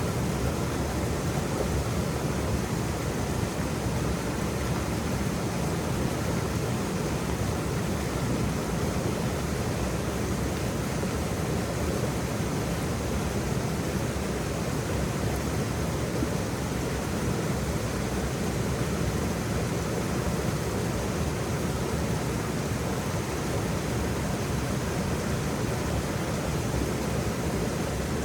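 Waterfall running steadily: an even, unbroken rush of falling water with no distinct splashes or changes.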